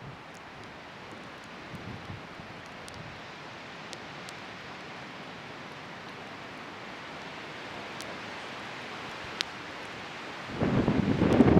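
Wood bonfire burning with a steady hiss and scattered small sharp crackles and pops. About ten and a half seconds in, a loud gust of wind buffets the microphone.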